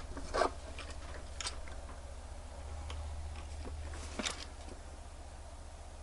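Scattered small clicks and a brief light scrape from small tools handling a wristwatch on a bench, the loudest click about four seconds in, over a steady low hum.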